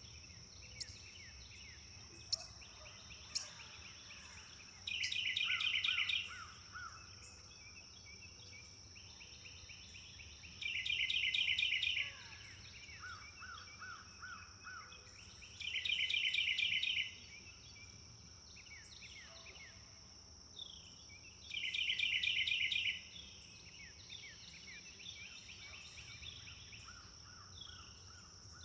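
Forest birdsong: one bird repeats a loud, rapid trill lasting about a second, five times at regular intervals, while other birds chirp and whistle softly between. A steady high-pitched hum runs underneath.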